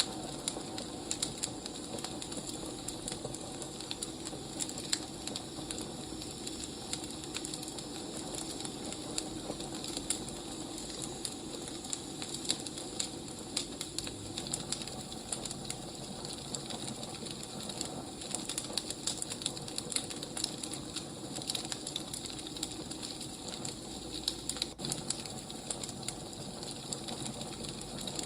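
Wood fire burning: dense, irregular crackles and pops over a steady hiss.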